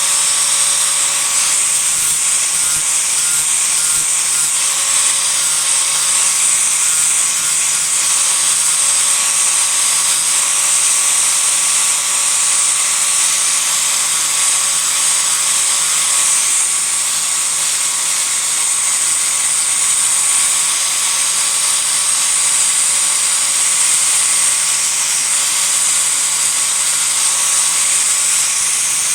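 Electric disc grinder running steadily, grinding into a block of cedar to rough out a carving, with a constant high whine.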